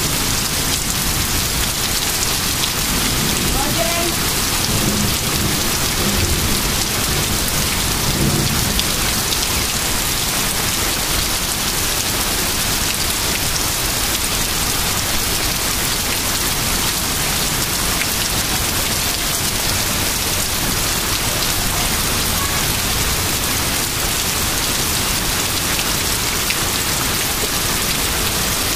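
Heavy thunderstorm rain pouring down steadily, an even hiss of rain on lawns, pavement and trees.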